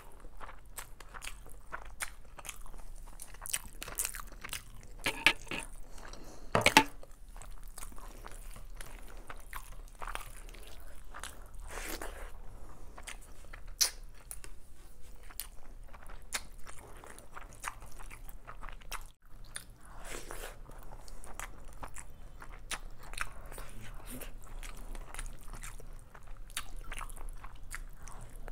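Close-miked mouth sounds of a person eating chicken biryani by hand: steady chewing and biting of big mouthfuls, with many wet clicks and crunches. The loudest cluster comes about five to seven seconds in.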